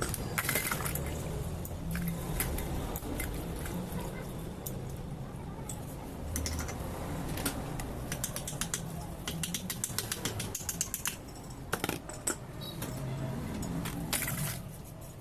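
Metal clicks and rattles of tools and small pump parts being handled during assembly of a rotary diesel fuel injection pump, with a quick run of ratchet-like clicking about two-thirds of the way through and a few louder clicks near the end, over a steady low hum.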